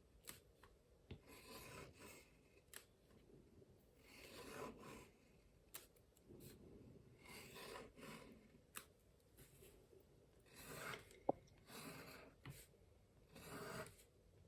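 Faint scratching strokes of a drawing tool across watercolour paper as petal outlines are drawn, coming as several separate strokes with a few small ticks and one sharp click.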